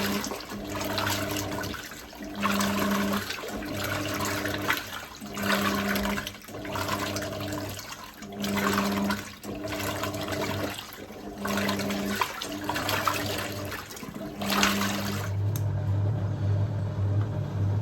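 Hoover 1400 top-loader washing machine agitating its rinse water: sloshing water with a motor hum that swells about every three seconds. About fifteen seconds in, the sloshing stops and a steadier low motor hum carries on.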